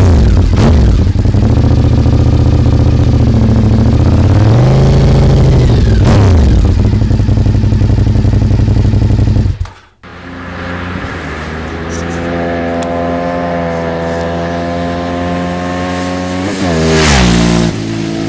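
Honda RC51's 1000 cc V-twin engine being revved on the stand through its twin under-seat exhausts, with several throttle blips whose pitch climbs and falls. After an abrupt cut, a motorcycle is heard approaching with its engine note slowly rising, then passing loudly near the end with its pitch falling.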